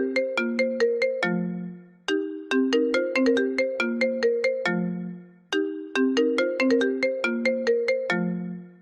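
iPhone ringtone playing: a short melody of quick, plucked-sounding notes, each phrase ending on a lower note that fades, looping about every three and a half seconds.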